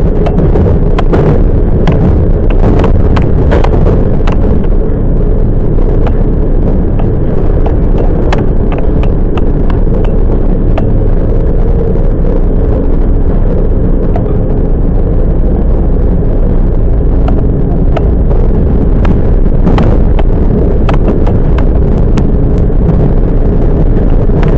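Toyama Chihō Railway 10030 series electric train running, heard from inside the car: a steady loud rumble of wheels on track with sharp clacks scattered through, thickest in the first few seconds and again near the end.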